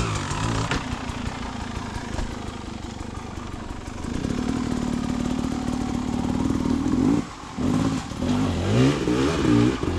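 Dirt bike engine running under throttle, held fairly steady for a few seconds, then closed off briefly about seven seconds in and revved up and down several times near the end.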